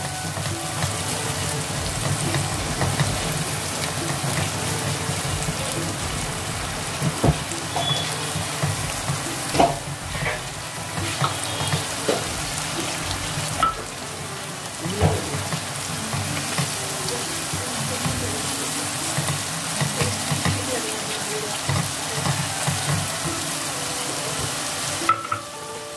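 Spice masala paste sizzling in hot oil in a pan as it is fried down (bhuna), with a spatula stirring through it and occasional sharp knocks against the pan.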